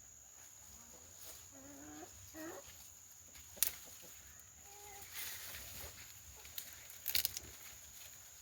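Chickens clucking, with a few short wavering calls about two seconds in and again near five seconds. A sharp crack about three and a half seconds in and a cluster of louder cracks and rustles around seven seconds in.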